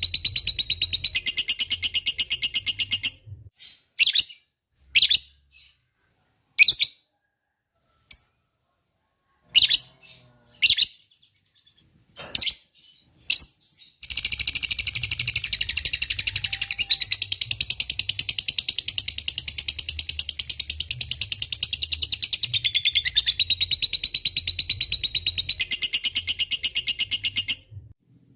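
Lovebird giving its long 'ngekek' chatter, a fast unbroken run of high, rapidly repeated chirps. About three seconds in it breaks off into a scatter of short separate calls, then a second long chatter starts about halfway through and runs until near the end.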